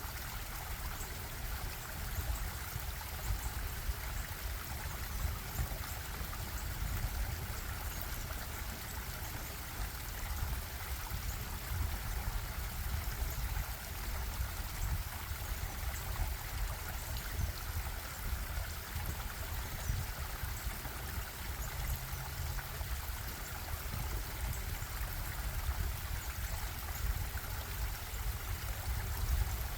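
Stream water bubbling and flowing steadily, an even rush of water with a low rumble underneath.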